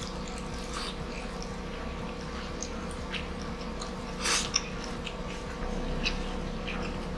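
Mouth sounds of eating rice and grilled chicken by hand: chewing and small lip smacks, with one louder smack about four seconds in. A low steady hum runs underneath.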